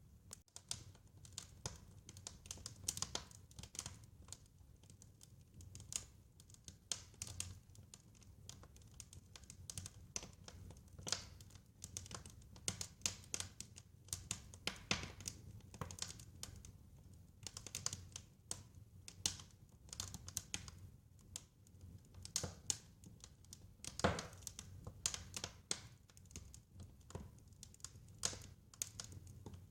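Wood fire crackling: irregular sharp snaps and crackles over a faint low rumble, with one louder snap about 24 seconds in.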